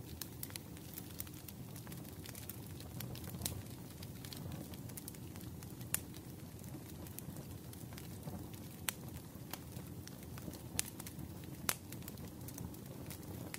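Wood fire crackling in a fireplace: a low steady rumble with scattered sharp pops, a few of them louder.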